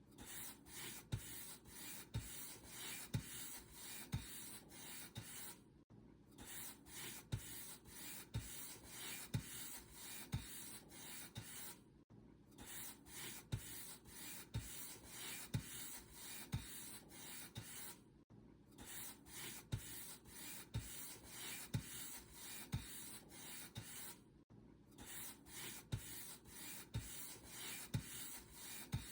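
Paint brush bristles rubbing across a surface in quick back-and-forth strokes, about two a second, each with a soft low tap. The strokes stop briefly about every six seconds.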